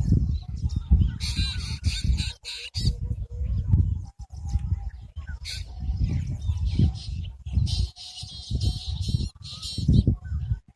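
Birds chirping and calling in clusters of quick repeated notes, over a loud, uneven low rumble.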